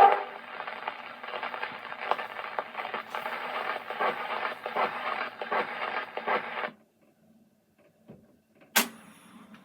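Old 78 rpm shellac gramophone record's surface noise after the song ends: a crackling hiss with a regular click about every two-thirds of a second, as the needle runs in the run-out groove. It stops abruptly about two-thirds of the way through, followed by a faint click and then one sharp click.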